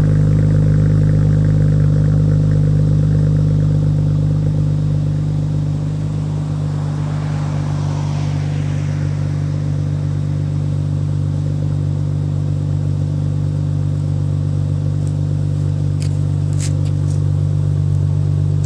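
Acura TL Type-S V6 idling steadily on a cold start, heard through an RV6 true dual exhaust with J-pipe. The idle eases a little in loudness about five seconds in, and a few faint clicks come near the end.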